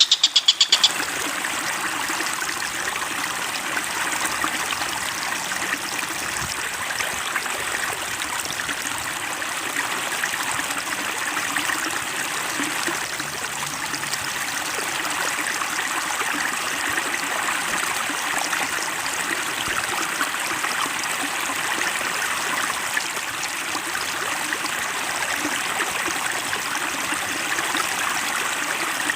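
Flowing water: a steady stream trickling and babbling. A rapid, pulsing bird call from the preceding song track cuts off under a second in.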